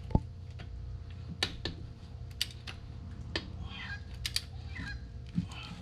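A click-type torque wrench being handled and set: a dozen or so light, sharp clicks and taps at irregular spacing, over a low steady hum.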